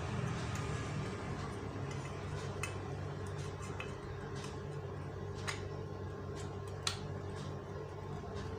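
A few sharp, light metallic clicks, three of them standing out, over a steady low hum.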